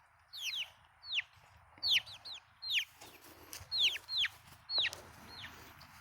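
Young chickens peeping: a run of short, high peeps that fall in pitch, about two a second.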